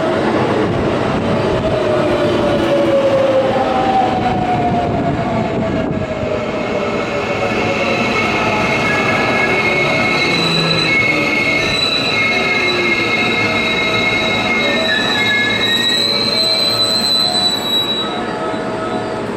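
JR West electric commuter train braking into a station platform. The motor whine falls in pitch over the first few seconds, then a high, steady squeal from the wheels and brakes holds until the train nearly stops.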